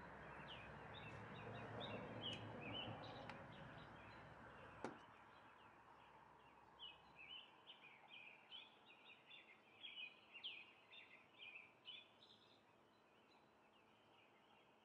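Faint chirping of small birds, many short high calls, over low background noise. The background noise drops away with a single click about five seconds in.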